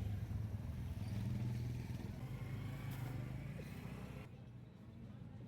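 A motor vehicle engine running with a low steady hum that cuts off abruptly about four seconds in.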